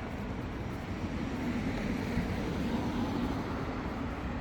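A motor vehicle passing on a city street: a rumble of engine and tyres that swells about midway and then fades.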